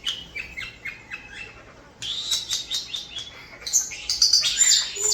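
European starlings chattering: a quick run of short downward-sliding chirps, then a denser stretch of whistles and chatter that grows louder near the end.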